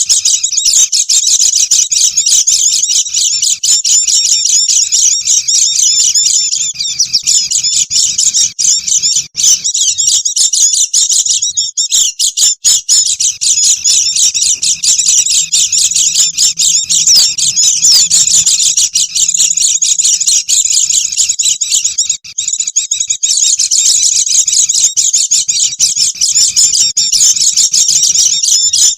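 A flock of white-eyes (pleci) chattering noisily: many fast, high chirps overlapping in a dense, unbroken stream, with a few brief lulls. This is a bird-lure call meant to draw in wild white-eyes.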